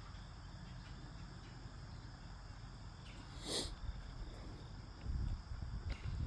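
Outdoor ambience of insects chirping steadily at a high pitch, with one short sharp noise about three and a half seconds in and a low rumble on the microphone building near the end.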